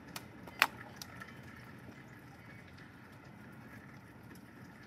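Steady rain with a few sharp taps in the first second or so, the loudest about half a second in.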